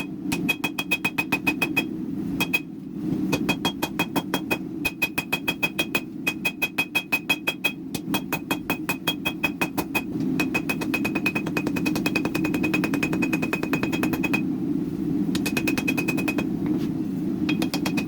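Power hammer striking hot Damascus steel in a fast, even run of blows, several a second, each with a metallic ring, over a steady low hum. The blows break off briefly twice, a couple of seconds in and again about three-quarters through.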